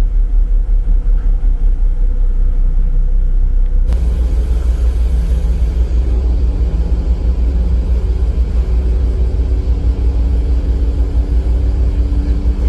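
A ferry's engines running under way: a loud, steady low rumble with a faint hum over it. About four seconds in, the rumble changes abruptly to a louder, rougher version with more hiss above it.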